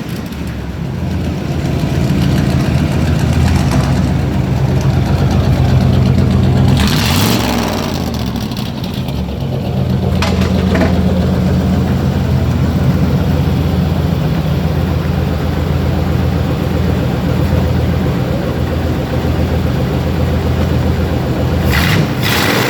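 440 big-block V8 in a 1967 Dodge Sweptline pickup running through straight-piped true-dual side exhausts. It idles steadily, with the revs coming up and then falling back about seven seconds in.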